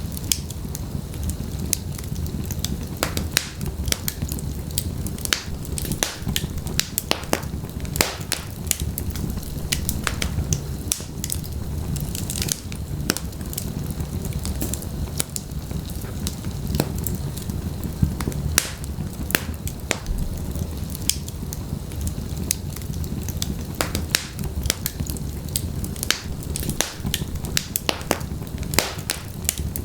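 Fire in a fireplace crackling, with frequent sharp irregular pops and snaps over a steady low rumble of the flames.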